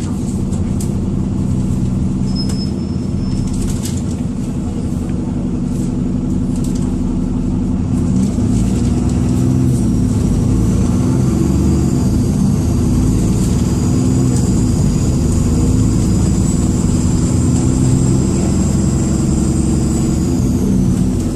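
Dennis Trident II / Alexander Dennis Enviro400 double-deck bus's diesel engine droning steadily as heard from inside, with a few rattles. About halfway through a high, kettle-like turbocharger whistle rises in, holds, and cuts off just before the end.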